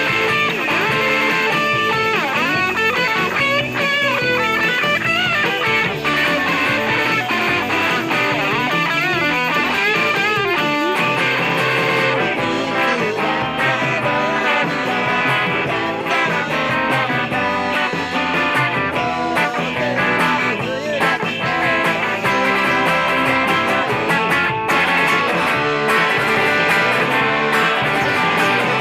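Electric guitar playing a rock song with a band backing. During the first ten seconds or so the lead line has bent and wavering notes.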